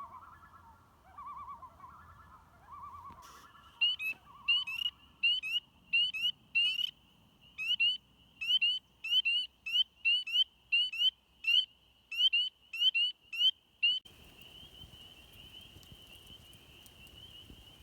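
Wild birds calling: a lower call repeated about once a second, then a loud run of short, sharply slurred high whistled notes, about two a second. In the last few seconds a steady high trill takes over.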